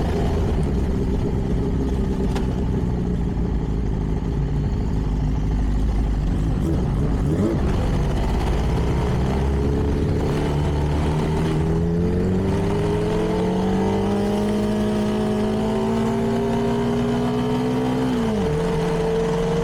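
CFMoto 300NK's single-cylinder engine through its stock exhaust, running low at first under wind noise, then revving steadily higher for about ten seconds from just under halfway. Near the end the revs drop sharply.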